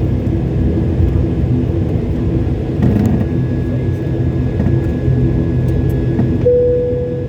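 Airliner cabin noise: the jet engines and airframe giving a steady low rumble, with a faint high whine throughout. A short steady tone sounds near the end.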